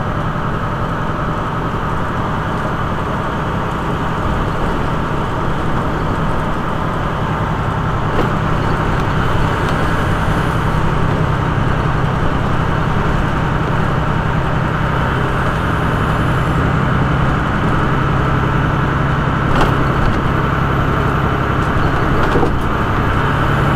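Semi truck's diesel engine running under load, heard from inside the cab: a steady low drone that grows slightly louder over the first several seconds as the truck gets up to speed, with a few faint clicks.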